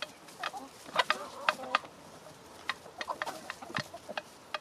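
Backyard chickens pecking at food in quick, irregular sharp taps, with a few short clucks about a second in.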